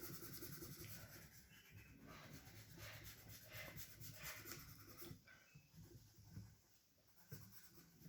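Faint scratchy rubbing of orange colour being shaded onto paper in quick back-and-forth strokes, pausing briefly near the end.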